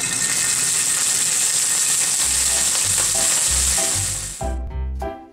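Whole shallots frying in rice oil in a pan, a steady loud sizzle that cuts off suddenly about four and a half seconds in. A bouncy music jingle fades in under the sizzle and takes over near the end.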